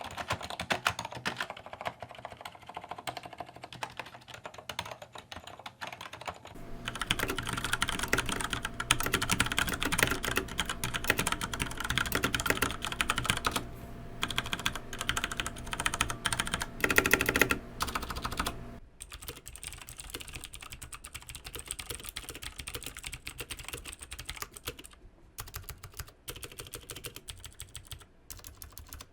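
Rapid typing on a mechanical keyboard, dense clacking keystrokes. The sound changes character about 7 s in, becoming louder with more low thud, and again about 19 s in, turning quieter, as one switch sound test gives way to the next.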